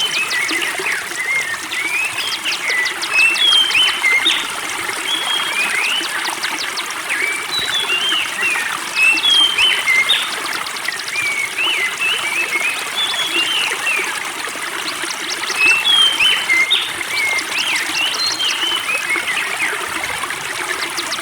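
A songbird singing short whistled chirps and rapid clicking trills in repeated phrases, over a spring-fed stream trickling steadily.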